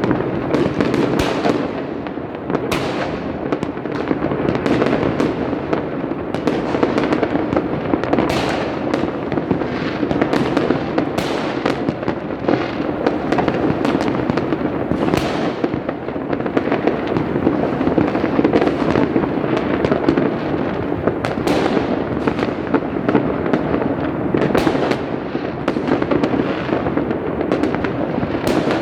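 Many fireworks going off at once across a city, a continuous din of booms and crackle with frequent sharp bangs standing out every few seconds.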